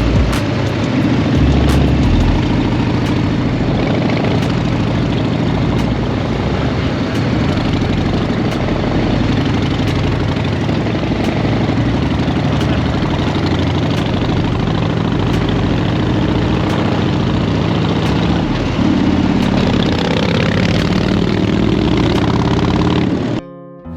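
Motorcycle engine idling steadily through an aftermarket muffler, the exhaust sound cut off suddenly just before the end.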